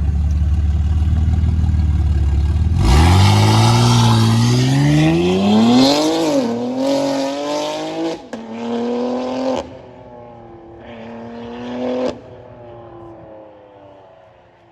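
Modified car's engine running with a deep low rumble, then revved hard about three seconds in. The pitch climbs, dips once and climbs again, is held high, and is cut off sharply several times before it drops back and fades.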